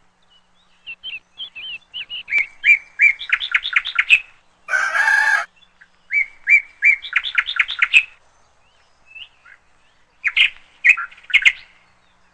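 A songbird singing in repeated phrases, each a quick run of rising chirps, with pauses between bouts. A brief harsh burst of sound cuts in about five seconds in.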